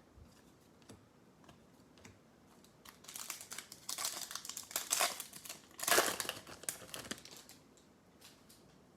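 Foil wrapper of a trading-card pack crinkling and tearing as it is opened, in a run of crackles from about three seconds in, loudest near six seconds. A few light ticks come before it.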